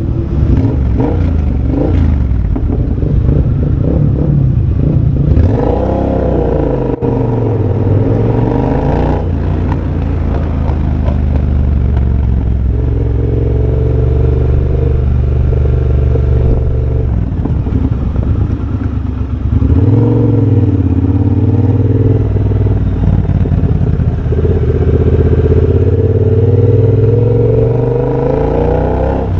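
2023 Triumph Bobber's 1200 cc parallel-twin engine running through a de-catted TEC X-pipe and a Motone shorty exhaust, its pitch rising and falling as the rider works the throttle and gears. The engine note drops briefly about seven seconds in and again around twenty seconds, then climbs back.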